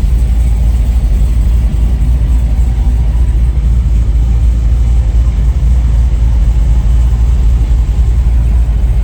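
A motor vehicle's engine running steadily, with a loud, even low rumble.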